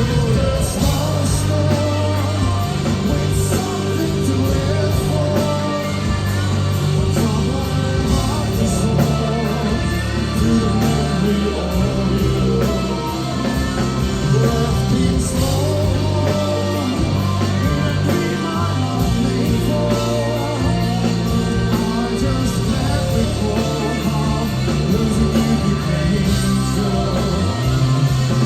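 Live rock band performing: a vocalist sings over electric guitars, bass and drums, loud and continuous, as recorded from the audience at a club gig.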